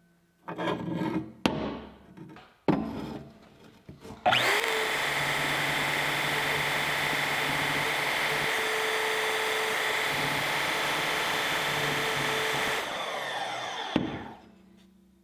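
A power tool cutting through the steel end of a ratcheting turnbuckle: a steady, loud cutting noise with a motor hum for about nine seconds, easing slightly before it stops. A few short metal knocks and handling sounds come before it starts.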